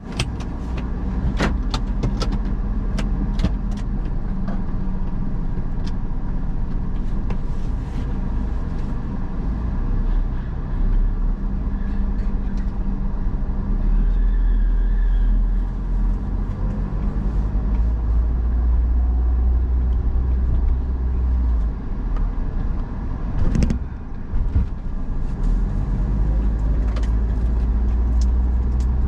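Car driving along: a steady low rumble of engine and road noise, with a few sharp clicks in the first seconds and a louder knock towards the end.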